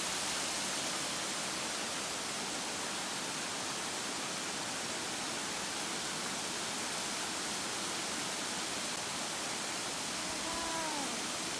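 Waterfall: falling water making a steady, even rush that does not change. A few faint short sounds come in near the end.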